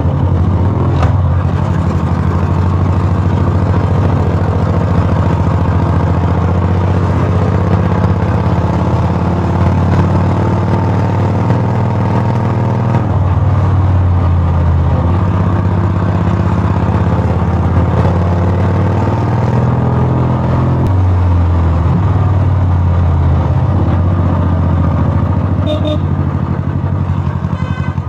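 Royal Enfield Bullet's single-cylinder engine running steadily through a loud exhaust, with a deep, even note that shifts slightly about 13 and 21 seconds in.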